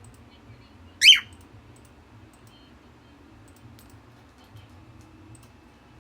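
A lutino cockatiel gives one short, loud, shrill chirp about a second in.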